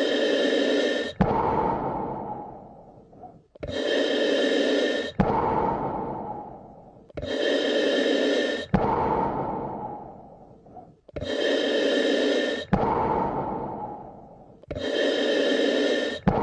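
Slow, even human breathing: an inhale of about a second and a half, then a longer exhale that fades away, repeating about every three and a half seconds.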